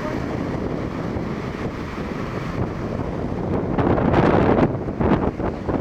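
Storm surf on a sandy sea shore, with strong wind buffeting the microphone. There is a steady rumbling wash, and then, about three and a half seconds in, a louder, choppier surge as a wave breaks and the gusts pick up.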